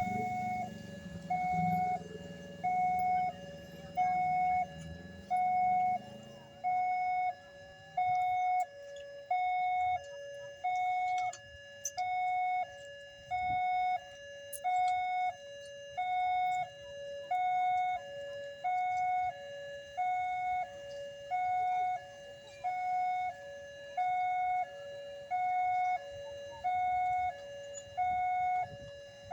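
Railway level-crossing warning alarm sounding: an electronic two-tone signal that alternates a higher and a lower note in an even, repeating pattern. A low vehicle rumble dies away over the first several seconds.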